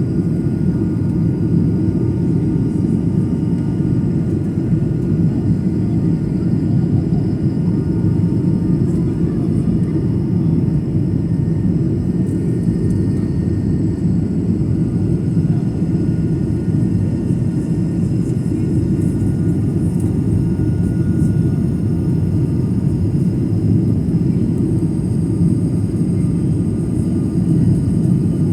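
Airliner cabin noise in flight: a steady, low rumble of the engines and rushing air, even throughout.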